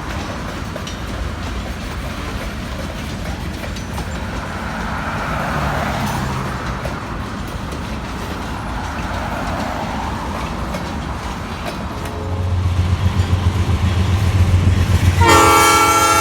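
Freight train rolling past on the rails with a steady rumble. About twelve seconds in, a diesel locomotive's engine drone grows louder, and near the end its air horn starts sounding several notes at once.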